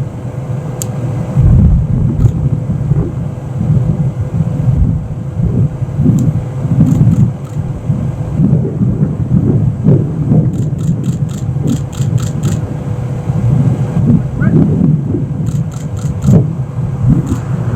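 Storm wind gusting over the microphone: a loud, uneven low rumble with a steady hum beneath it and a few short runs of faint clicks.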